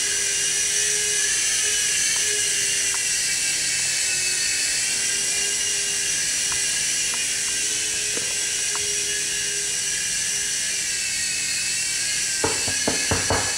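Micro RC helicopter's small electric motors and rotors whining at high pitch, the whine wavering slightly with throttle. A few sharp clicks near the end.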